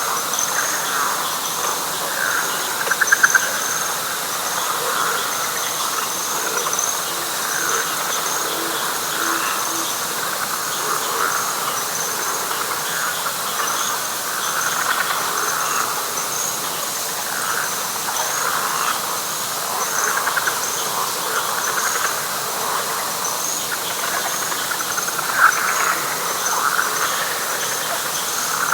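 Night chorus of frogs and insects in a wet pine flatwoods: a steady high chirping trill runs under a dense mass of overlapping frog calls, with a louder call about three seconds in and again near the end.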